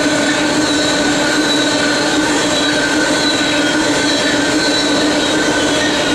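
BNSF coal train rolling past: a steady, loud wheel-on-rail rumble with a few steady high tones running through it.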